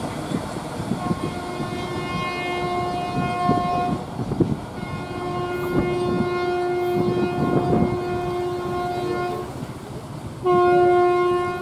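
Freight train wagons rolling past on the rails with a running clatter and occasional clanks, while a train horn sounds a single steady note three times: a blast of about three seconds, a longer one of about four seconds, and a louder one starting near the end.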